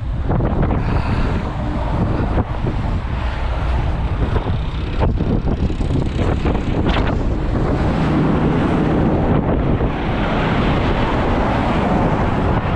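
Strong wind buffeting the microphone, over the low, steady rumble of a running vehicle. A couple of short knocks come through partway in.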